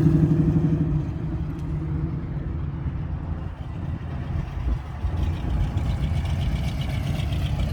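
A car engine running low and steady as it drives slowly past, its deep tone fading about a second in, followed by a steady low engine rumble.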